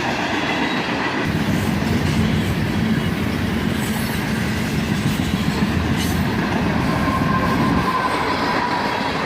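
Freight cars rolling past, with a steady rumble and clatter of steel wheels on rail. A thin wheel squeal rises briefly near the end.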